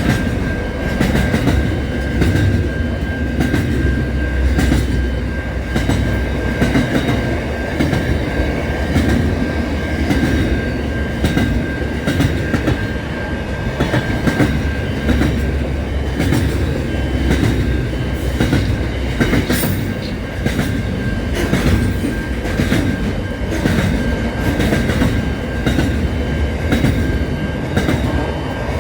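Train running on rails: a steady rumble with repeated clickety-clack of the wheels over rail joints and a steady high whine throughout.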